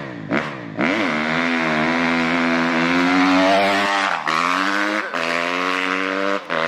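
Dirt bike engine blipped once, then held at high revs under hard acceleration, its pitch climbing slowly and dipping briefly twice, about four and five seconds in.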